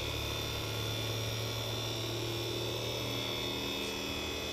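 Creality Ender 3 V3 Plus 3D printer running its startup self-check: a steady electrical hum and buzz from its fans and stepper motors, with a thin high whine. The low tones shift slightly about three seconds in.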